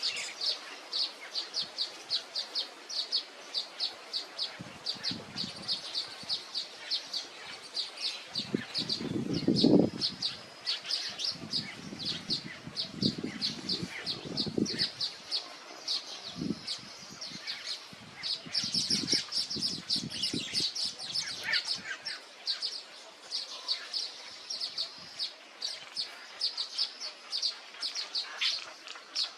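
A small bird chirping steadily, short high notes repeated about three times a second. Low rustling bumps come in at times, the loudest about a third of the way in.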